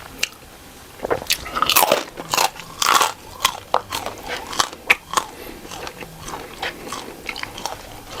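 A person biting and chewing crunchy food close to the microphone: after about a second, a run of sharp crunches, loudest near the start, then lighter crunching chews.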